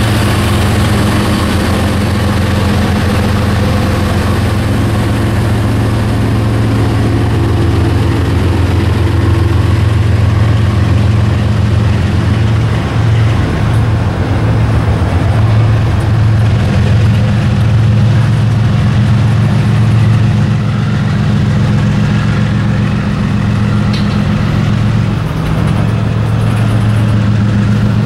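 Freight train passing close by: a GE diesel-electric locomotive's engine running with a steady low drone, and boxcars rolling past on the rails.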